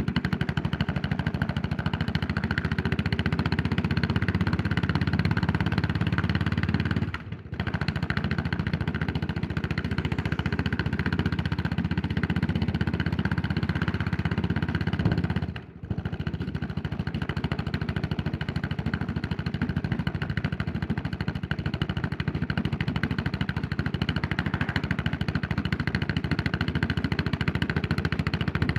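Yamaha SR400's air-cooled single-cylinder four-stroke engine running steadily under way as the motorcycle is ridden. Twice, about seven and sixteen seconds in, the sound drops away for a moment and then picks up again.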